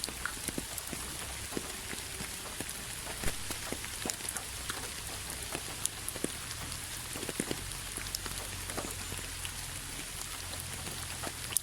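Steady rain: an even hiss with many separate drops ticking close by at irregular moments.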